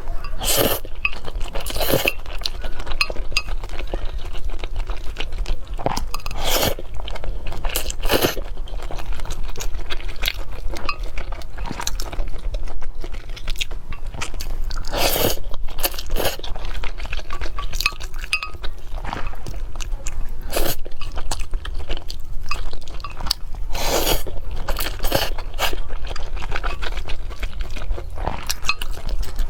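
Close-miked chewing of cake: irregular crunching and wet mouth sounds, with several louder crunchy bites scattered throughout.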